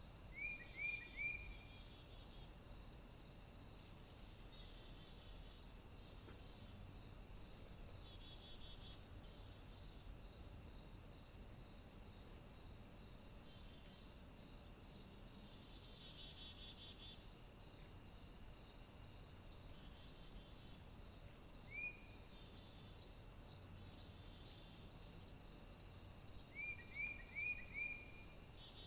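A small bird calling in short, high, upward-flicking chirps: a quick run of three or four near the start, a single one about two-thirds of the way in, and four more near the end. Under the chirps there is a steady, high-pitched hiss.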